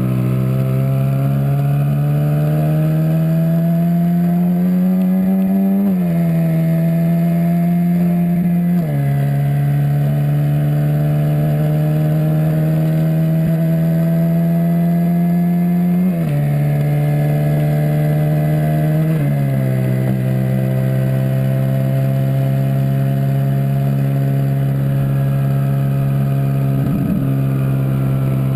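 Twin-turbocharged Ferrari 458 Spider's V8 engine pulling under gentle, steady acceleration. Its note climbs slowly and drops suddenly at four upshifts.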